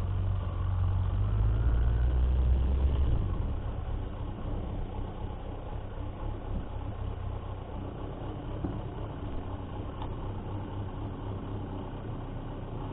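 Motorcycle engine running, louder for the first three seconds with a faint pitch rising, then settling to a steadier, quieter run.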